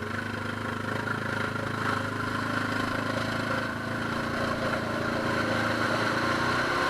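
ATV engine running at a steady note, growing gradually louder.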